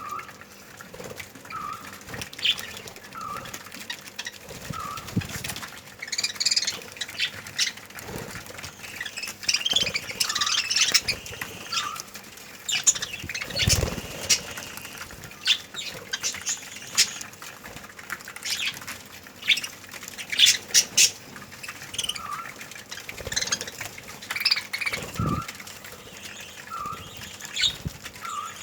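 A colony of budgerigars chirping and chattering, with a short call repeating every second or so, wings flapping and a few thuds.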